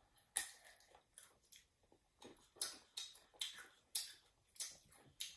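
Raw green mango slices being bitten and chewed, an irregular run of short, crisp crunches about two a second.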